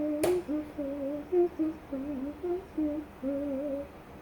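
A woman humming a wandering tune to herself in a small room, held notes sliding up and down, with a sharp click about a quarter second in.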